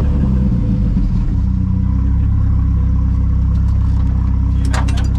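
Cabin sound of a big-turbo Volvo wagon's engine running steadily at low revs, with a few sharp clicks near the end.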